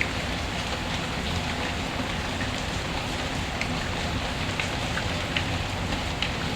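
Steady rain falling, with short sharp clicks scattered through it every half second or so.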